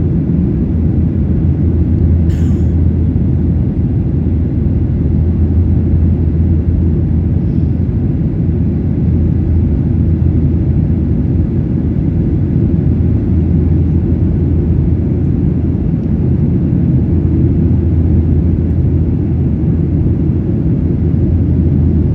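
Boeing 737-800 cabin noise heard from a window seat: a steady, loud, low engine and airflow rumble with a constant low hum. About two seconds in there is a brief faint hiss or click.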